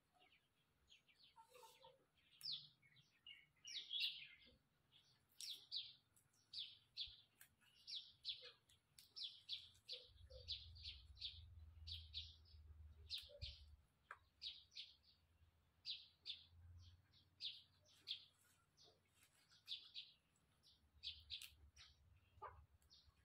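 A small bird chirping over and over, faint short high chirps about one or two a second, often in pairs.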